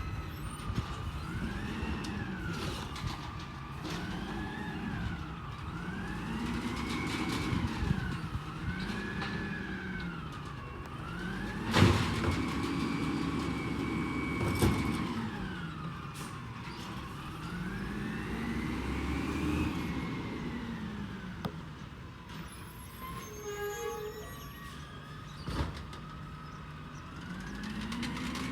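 A garbage truck's engine revs up and drops back over and over, each rise and fall taking a second or two, as it runs the hydraulics. Two sharp knocks come about twelve and fourteen and a half seconds in.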